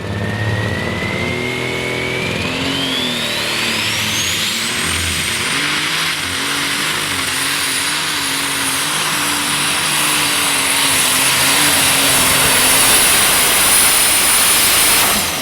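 Alcohol-burning super stock pulling tractor's turbocharged engine running flat out while pulling the sled. A high turbo whine climbs steeply over the first six seconds, then holds high over the engine roar and cuts off near the end as the run finishes.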